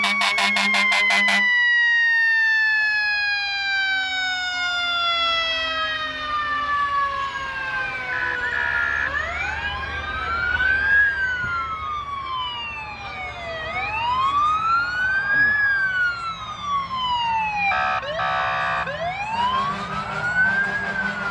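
Fire truck sirens. One siren winds down in a long falling whine over the first nine seconds or so, then sirens wail up and down in slow cycles. Short horn blasts sound at the start, about eight seconds in and about eighteen seconds in.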